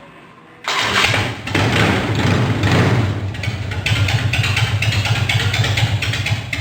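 Arch KRGT-1 motorcycle's big S&S V-twin engine comes in loud and sudden about two-thirds of a second in. It is revved in a few surges that swell and fade, then runs on steadily.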